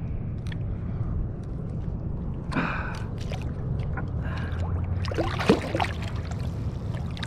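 Water sloshing and splashing around a kayak, with scattered small knocks and handling noises, over a steady low wind rumble.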